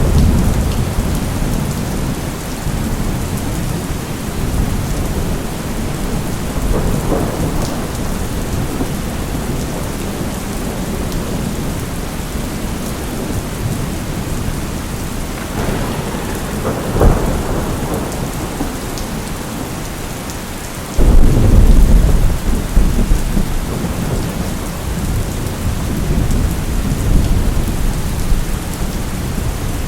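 Steady heavy rain hiss with rolling thunder rumbling several times. About two-thirds of the way through, a sudden loud thunderclap breaks in and rumbles on for several seconds.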